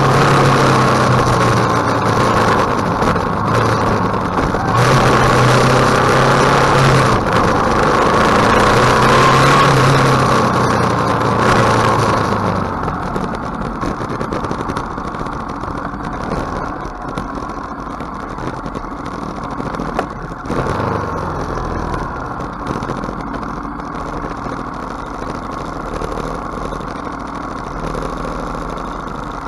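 KTM 1050 motorcycle's V-twin engine running, its pitch stepping up and down, with a rushing noise over it. About twelve seconds in it drops to a quieter, steady low running like idling.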